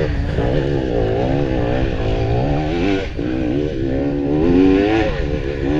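Off-road trail motorcycle engine running while riding, its pitch rising and falling again and again as the throttle is worked.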